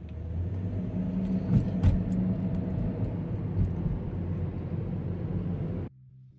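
A loud, steady low rumble like a running vehicle engine, with a few sharp knocks, that cuts off suddenly near the end, where quieter music begins.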